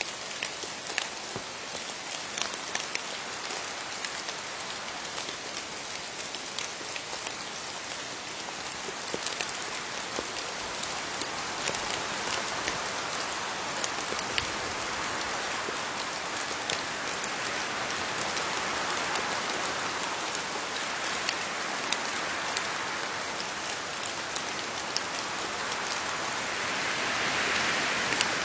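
Steady rain falling on leaves, an even hiss with many separate drops ticking through it; the rain grows a little heavier in the later part.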